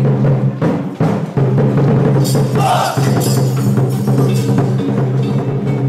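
Traditional Taiwanese drum-and-gong percussion band playing, with repeated drum strikes over ringing low tones and a louder clash of metal percussion about two seconds in.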